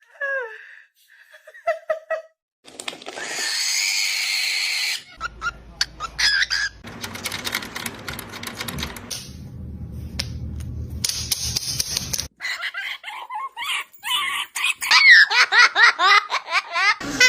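A parrot calling in a string of short, abruptly cut segments: falling whistles at the start, a harsh hissing screech a few seconds in, and rapid chirping squawks near the end.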